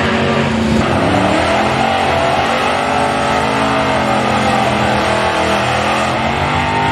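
Drag-racing car engine running hard down the strip, its pitch climbing to a peak about halfway through, falling away, then rising again near the end.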